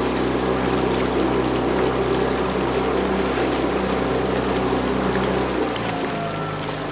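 Motorboat engine running at a steady note, with water rushing past the hull. About six seconds in, the engine note drops and the sound gets a little quieter, as if the boat throttles back.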